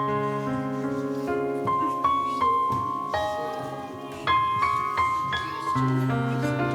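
Keyboard or piano music playing a slow melody over held chords, each note struck and then ringing.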